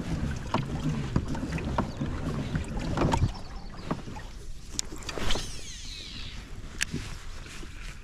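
Handling noise from a fishing kayak on the water: a low rumble for the first three seconds, then scattered knocks and clicks, and a brief falling high whine about five seconds in.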